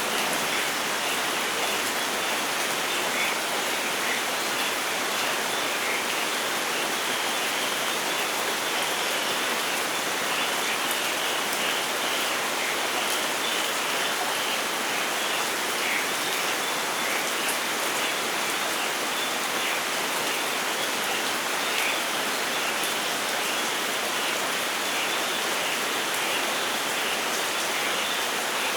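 Steady rain falling in a forest, a constant hiss with patters of individual drops and no thunder.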